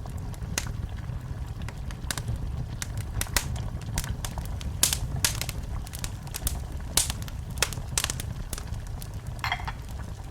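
Wood fire in a fireplace crackling, with irregular sharp pops over a steady low rumble of the flames; a brief hiss comes near the end.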